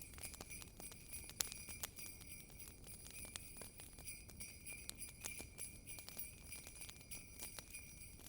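Jingle bells tinkling steadily, with the scattered sharp crackles and pops of a wood fire in a fireplace.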